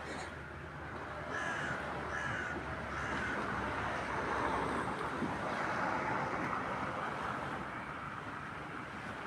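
Short bird calls, three in quick succession in the first few seconds, over a steady rushing noise.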